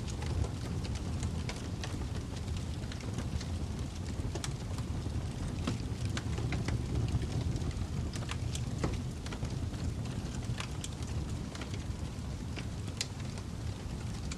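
Fire crackling: a steady low rumble of flames with irregular sharp pops and snaps scattered throughout.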